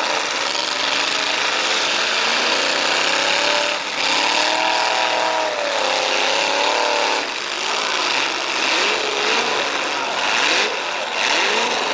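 Several demolition derby car engines revving up and down at once, their pitches rising and falling against each other over a constant wash of noise.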